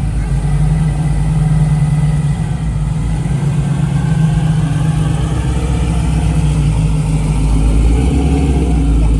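Car engine running steadily at low speed with a deep, loud rumble, as a car rolls slowly along the street.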